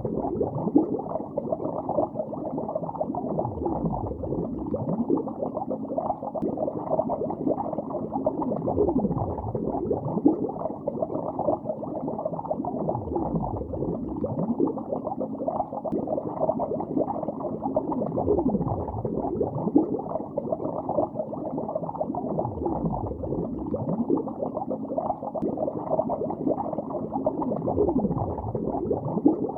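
Underwater bubbling in a lake: a steady stream of many overlapping bubbles gurgling, with short rising and falling pitch glides. The sound is muffled, with nothing in the upper range.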